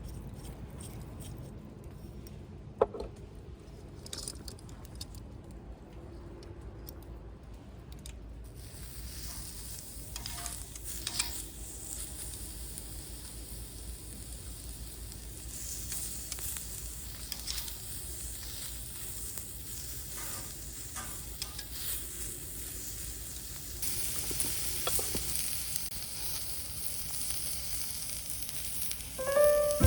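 Sizzling and crackling at a wood fire, with scattered sharp pops; the sizzle starts about a quarter of the way in and grows stronger near the end.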